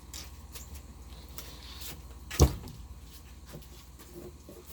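A fillet knife working under rough, sandpaper-like blacktip shark skin to cut it from the fillet, with faint scattered scrapes and clicks. One sharp, loud knock about halfway through.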